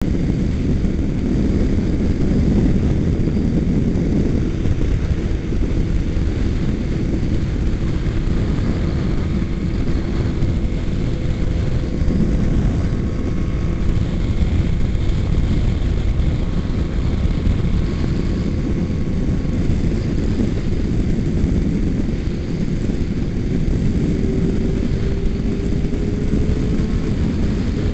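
A motorcycle riding at freeway speed, heard as a steady rush of wind on the microphone over the engine's drone, with a faint hum that rises slightly near the end.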